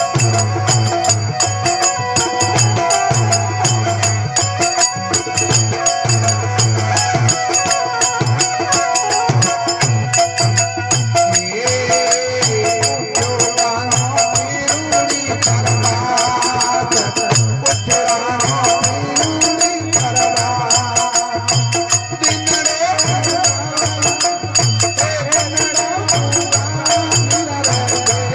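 Instrumental passage of a Rajasthani devotional bhajan: a steady, fast rhythm of jingling percussion like a tambourine, with a melodic instrument line weaving over it.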